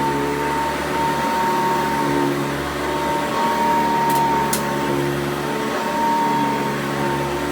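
A 1991 Hoover Encore upright vacuum cleaner running steadily, a motor hum with a whine near 1 kHz that swells and fades. Two brief ticks a little past halfway.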